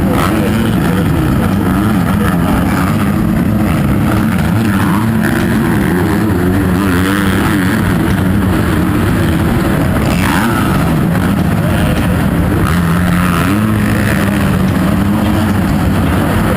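Motocross bike engines running loud, their pitch wavering up and down as they rev.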